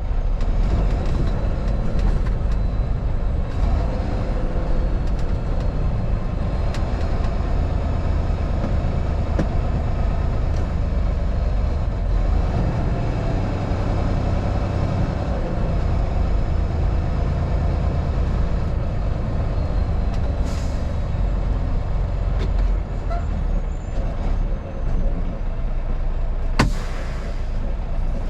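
Steady engine and road noise of a vehicle being driven, with two short, sharp hisses in the last third.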